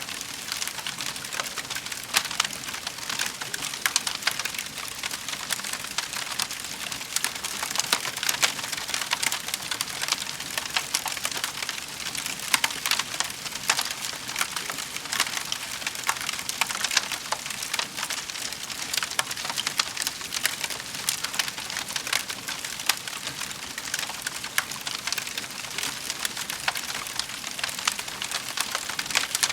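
Wood fire in a fireplace crackling, with dense irregular snaps and pops over a steady hiss.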